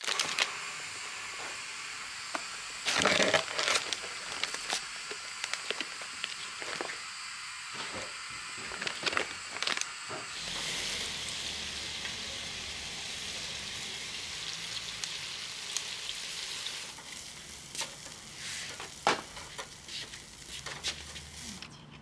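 Food sizzling and crackling as it fries in a hot pan, a steady hiss dotted with small pops, with a louder burst about three seconds in. The sizzle grows fuller about ten seconds in.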